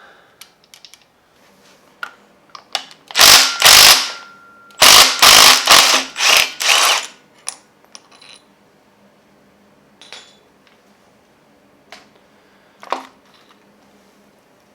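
Impact wrench hammering the camshaft bolt of a Gen 4 Hemi loose, in short bursts: two about three seconds in, then four or five more in quick succession. A single sharp metallic clink near the end.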